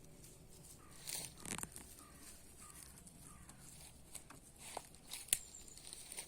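Hens clucking softly, a run of short falling notes about every half second, with a few scratchy clicks and rustles; a sharp click about five seconds in is the loudest sound.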